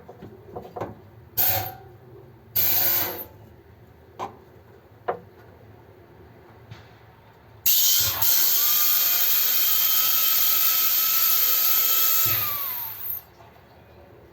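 A small electric motor whirs in two short bursts, then runs steadily for about five seconds and winds down as it stops, with a few clicks and knocks in between.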